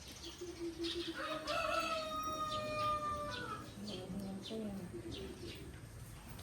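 A rooster crowing once: one long, drawn-out crow starting about a second in, holding its pitch and dropping at the end.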